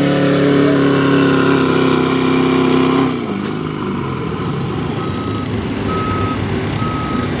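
A diesel pulling truck's engine runs at high, steady revs, then is let off about three seconds in, its pitch falling away. From about five seconds a backup alarm beeps roughly once a second.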